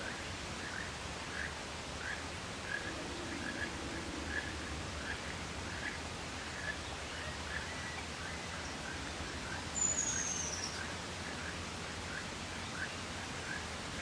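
Background birdsong: a faint short chirp repeated about twice a second, and one high whistle falling in pitch about ten seconds in, over a steady low outdoor rumble.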